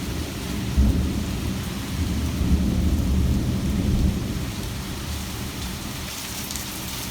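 Thunder rumbling over steady heavy rain during a severe thunderstorm. The deep rumble swells about a second in, is loudest around the middle and fades away, while the rain's hiss carries on.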